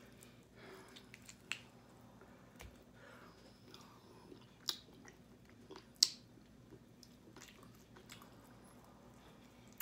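A person eating sauced chicken wings: biting and wet chewing, with a few sharp clicks, the loudest about six seconds in.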